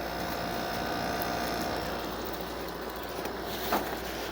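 Emerson Quiet Cool 6,300 BTU window air conditioner running, its fan blowing a steady rush of air, with a faint steady tone over the first two seconds. A brief tick about three and a half seconds in.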